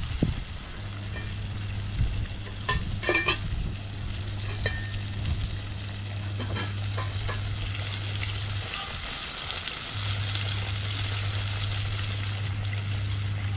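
Chicken frying in hot oil in a pot, sizzling steadily, with a few sharp utensil clicks against the pot around three seconds in. The sizzle grows louder and brighter in the second half.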